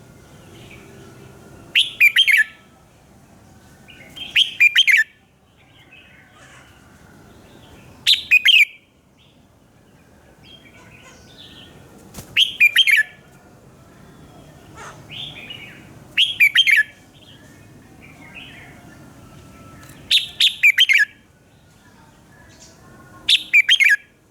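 Red-whiskered bulbul singing in short, loud, bright phrases of a few quick notes, repeated about every four seconds. Seven phrases in all, with softer calls and a faint low hum in between.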